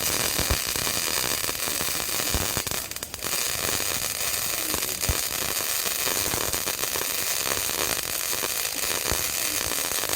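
Welding arc crackling and hissing steadily. It breaks off for a moment about three seconds in, then strikes again.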